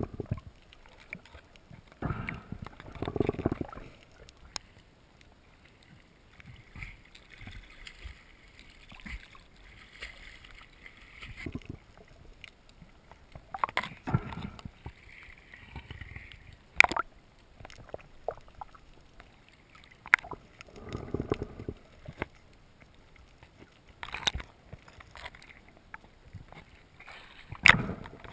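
Water sloshing and gurgling close to the microphone in irregular muffled surges, with scattered sharp knocks and clicks.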